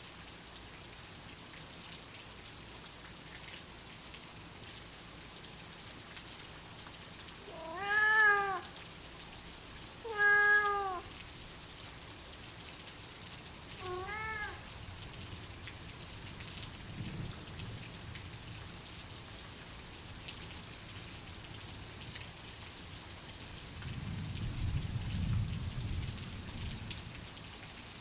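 Steady rain falling, with a cat meowing three times, each short meow rising and falling in pitch. Near the end a low rumble of soft thunder swells and fades.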